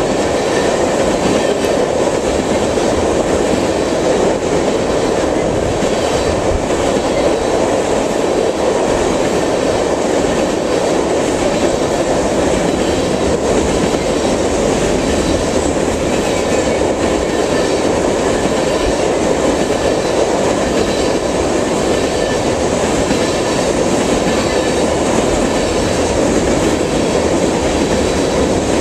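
Empty crude-oil tank cars of a freight train rolling past: a steady loud rumble of steel wheels on rail, with the clacking of the wheels running through it.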